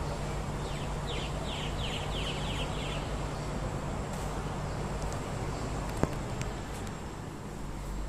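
A bird calling a quick run of about six short, high chirps, about one to three seconds in, over a steady low hum of outdoor background noise. A single sharp click comes about six seconds in.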